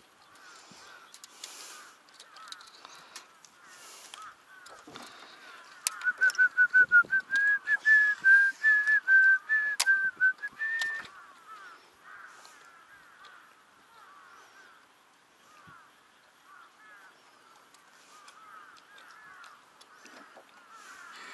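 Birds calling, with a steady chatter of small call notes throughout. About six seconds in comes one loud, rapid series of about twenty short notes, about four a second, lasting around five seconds.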